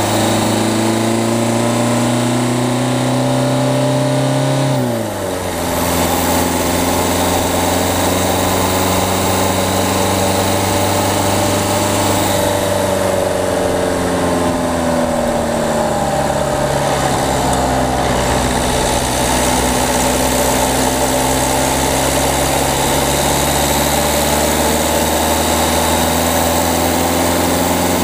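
Peugeot 208's diesel engine, heard from the front of the car, pulling with revs rising for about four and a half seconds, then the revs drop sharply at a gear change. It then runs on under steady driving, the revs slowly falling and later rising again.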